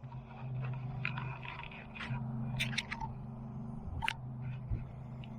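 Light scraping and scattered clicks, over a steady low hum like a motor running.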